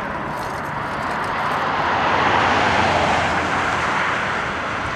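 Rushing noise of a passing vehicle, swelling to a peak about two and a half seconds in and then easing off.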